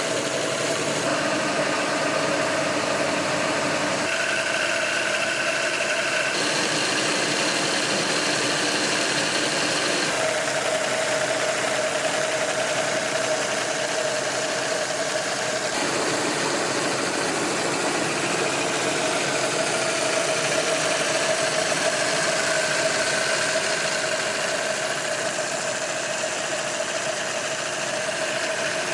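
Miniature model V-16 engines, 24 cc each, running steadily in a model ship's engine room, with a mechanical rattle. The running note shifts abruptly in pitch several times.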